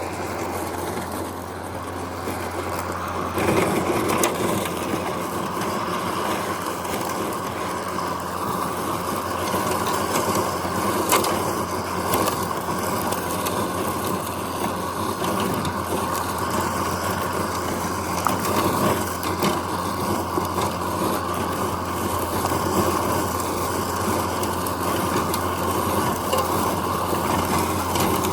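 Mowrator S1 battery-electric remote-control mower running with its blade spinning as it drives over grass: a steady low hum under a whirring noise that stays even throughout.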